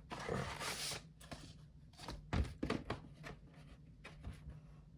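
Handling of a vinyl record's cardboard jacket and sleeve: a sliding, rustling swish in the first second, then a series of light knocks and clicks.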